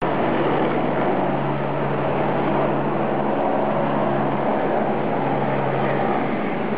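Radio-controlled model helicopter flying, its motor and rotor giving a steady drone with a constant low hum.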